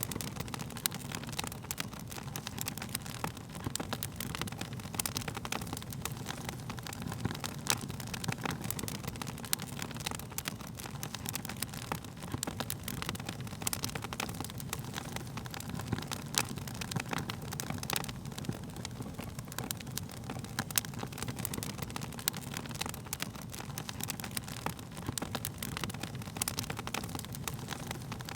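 Wood fire crackling: dense, irregular pops and snaps over a steady low rumble of burning flames.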